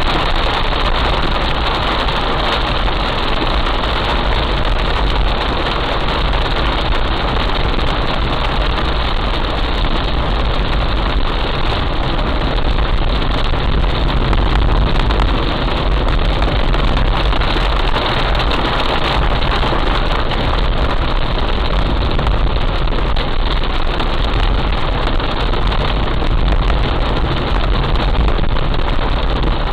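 Heavy rain falling in a steady, unbroken hiss, with a vehicle engine running underneath as a low rumble.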